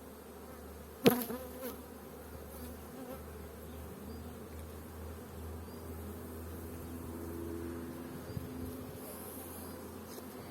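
Honey bees buzzing steadily around an opened hive, a wavering hum. About a second in comes one sharp knock, the loudest sound, followed by a couple of lighter clicks.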